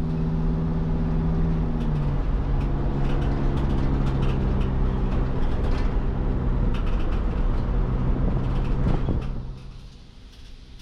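2006 Sprinter van's engine running steadily and loudly, its pitch stepping down about two seconds in. The sound fades away near the end.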